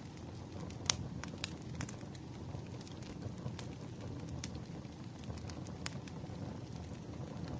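Wood fire crackling: a steady low rumble of burning logs with sharp, irregular pops and snaps, the loudest about a second in.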